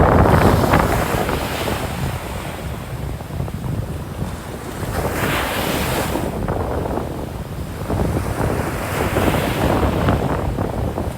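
Atlantic surf breaking and washing up the beach, swelling three times a few seconds apart, with wind rumbling on the microphone underneath.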